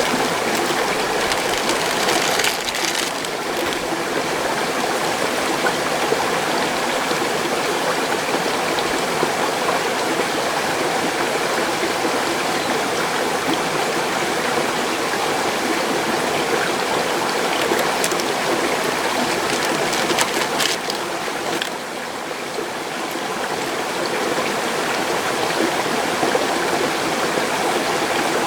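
Mountain stream rushing steadily, loud and unbroken, with a few faint clicks over it.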